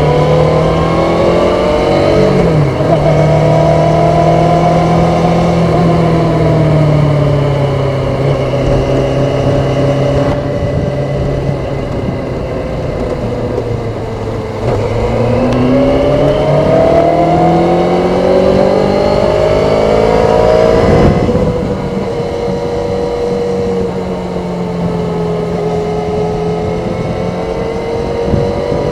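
Kawasaki ZZR400's stock-exhaust inline-four under way. The revs climb, drop sharply about two seconds in, then sag slowly. Over the next several seconds they climb again to a high pitch, drop sharply about twenty-one seconds in, and settle to a steady cruise.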